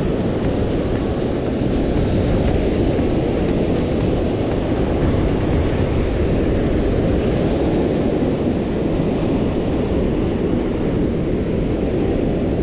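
Steady, loud roar of heavy surf breaking on the beach in rough, post-typhoon seas.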